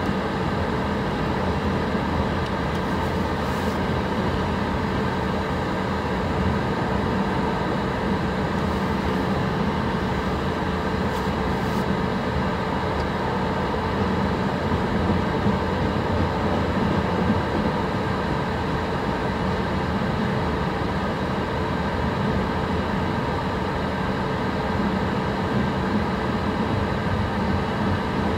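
Freight train of loaded tank cars rolling past close by: steady rolling noise of steel wheels on the rails, with no horn and no pauses.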